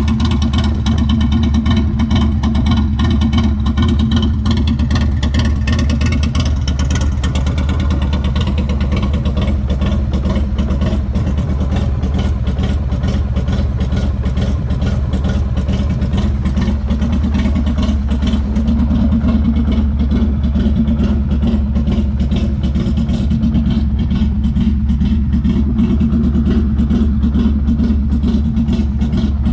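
2001 Harley-Davidson Sportster 1200's air-cooled V-twin running steadily through a Cobra El Diablo 2-into-1 exhaust, a loud, even stream of low exhaust pulses.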